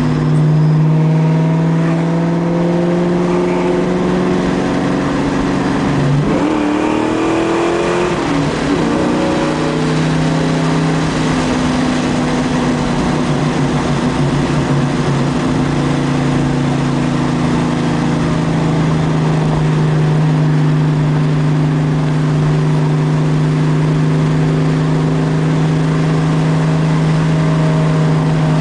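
Ford Mustang GT's 4.6-litre two-valve V8 with a Dynomax exhaust running under load at fairly high revs. The engine note sags slightly, dips and climbs again about six to eight seconds in, then holds steady.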